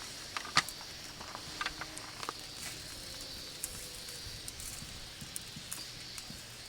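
Wood campfire crackling, with scattered sharp pops over a faint steady hiss; the pops are most frequent in the first couple of seconds.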